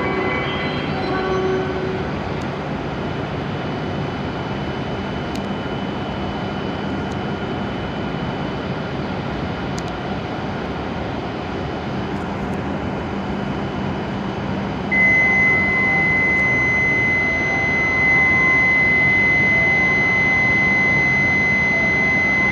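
W7 series Shinkansen running noise on the platform, a steady rushing noise. About two-thirds of the way in, a single steady high-pitched electronic tone starts and holds, and the sound gets louder.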